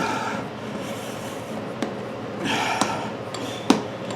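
A few sharp knocks and clicks of tools against a wheel rim, the loudest near the end, with heavy straining breaths in between. A man is levering down on an old, hardened lawn tractor tire to break its stuck bead from the rim.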